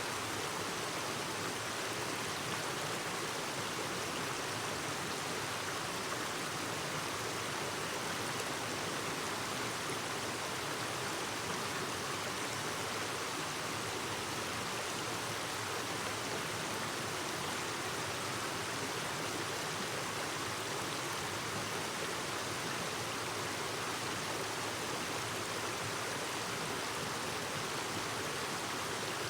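Clear mountain stream babbling steadily over rocks, an even rush of water.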